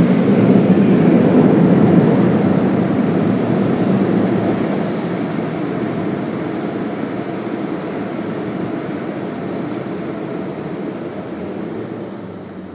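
Steady loud rushing noise of an automatic car wash tunnel's machinery, which fades gradually from about two seconds in.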